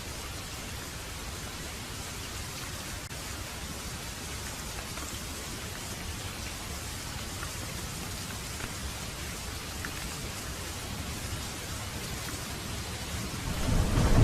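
Heavy rain falling steadily; near the end a deep roll of thunder swells in and gets loud.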